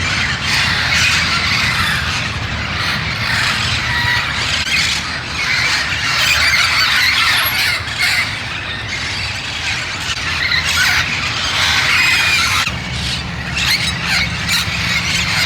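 A large flock of feral Amazon parrots squawking and screeching together in a raucous, continuous chorus of many overlapping calls, with a steady low rumble underneath.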